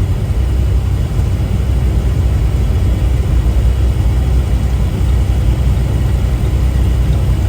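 Semi-truck engine and road noise heard from inside the cab while driving: a steady low drone.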